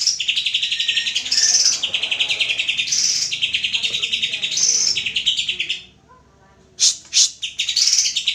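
Cucak hijau (greater green leafbird) singing a fast, chattering song in long phrases that switch between higher and lower pitch. The song breaks off briefly about six seconds in, then two sharp loud notes come before it resumes.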